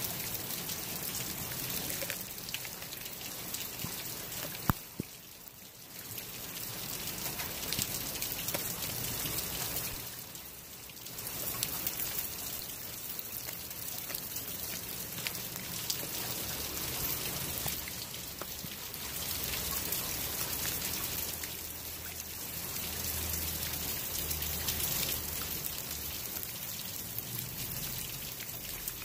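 Steady rain falling, with a Blue Bay Shepherd gnawing and crunching a whole raw fish close by, a sharp click about five seconds in.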